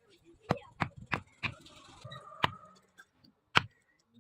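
Hand hammer blows in knife-making work: six sharp knocks at uneven spacing, the last the loudest.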